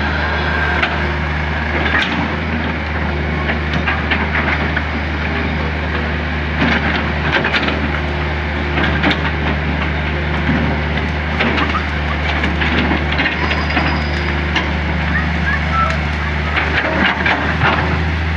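Hydraulic excavator's diesel engine running steadily under load, with many short irregular cracks and clacks of material and metal being worked through it.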